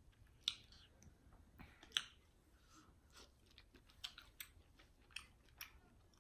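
A person eating seafood boil: faint chewing with scattered sharp clicks.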